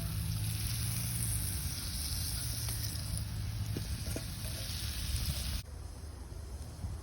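Food frying in a pan over a campfire: a steady sizzle with a few faint crackles and a low rumble. It cuts off abruptly about five and a half seconds in.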